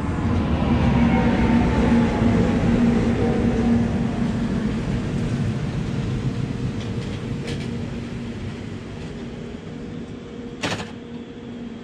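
Matterhorn Gotthard Bahn HGe 4/4 electric locomotive passing close alongside with its train of coaches. The locomotive's motors whine in several falling tones, loudest in the first few seconds, before the rolling coaches fade to a steadier rumble. There is a sharp click near the end.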